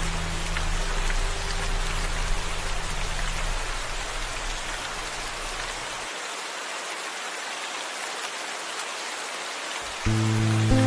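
Steady rain hiss. Low sustained musical notes fade out over the first few seconds, leaving only the rain, and music starts again near the end.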